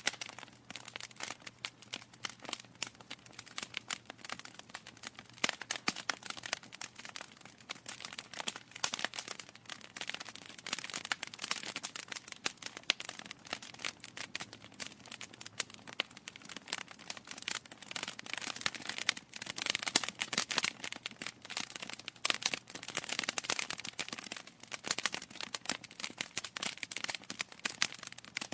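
Wood fire crackling: dense, irregular pops and snaps of burning logs over a soft hiss.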